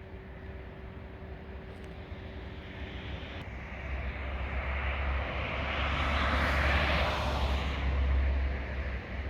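A distant engine passing by: a low rumble that swells from about four seconds in, peaks, and fades near the end, over a steady background hum.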